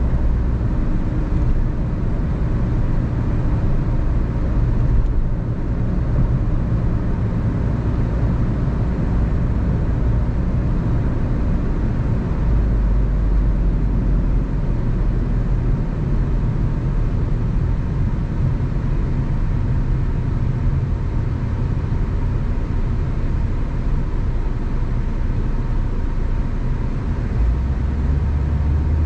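A car being driven: steady engine hum under road and tyre noise, with the engine's low note shifting a couple of times as speed changes.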